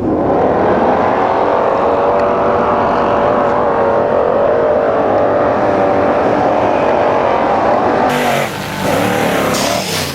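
Truck engine running hard at high revs, its pitch held fairly steady. About eight seconds in the sound cuts to a lower, wavering engine note.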